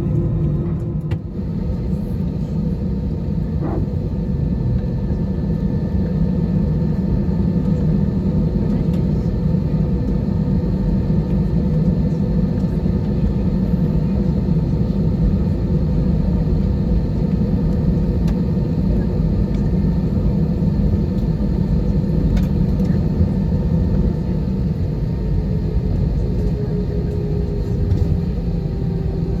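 Airbus A320 cabin noise: a steady, loud engine and airflow rumble with a constant hum over it. Near the end one of the hum tones dips slightly in pitch.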